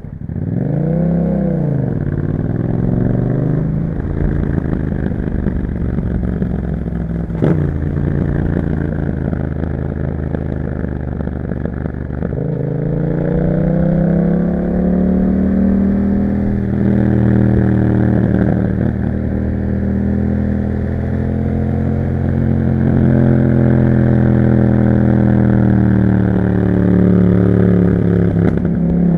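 Yamaha MT-07's parallel-twin engine through an Akrapovic exhaust fitted with dB killers, blipped up and back down once at the start, then pulling under way with rising revs after a gear change about twelve seconds in, and a sharp click partway through.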